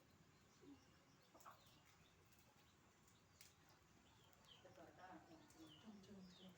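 Near silence, with faint birds chirping in short falling notes, more of them in the second half, and a few faint clicks.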